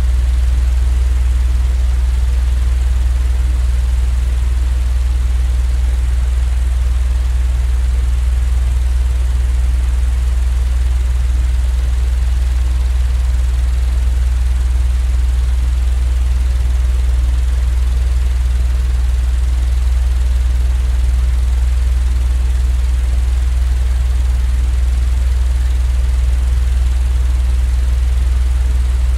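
Steady, unchanging low rumble from a white-noise track made for sleep, its sound heaviest in the deep bass with a faint hiss above.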